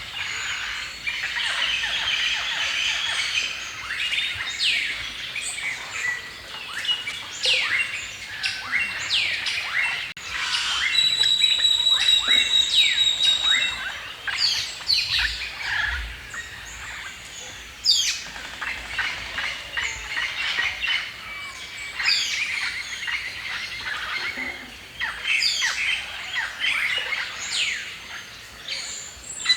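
A chorus of songbirds chirping and singing, with many quick downward-sweeping calls overlapping. Around the middle, one bird holds a high, even whistle in a run of repeated notes for a couple of seconds.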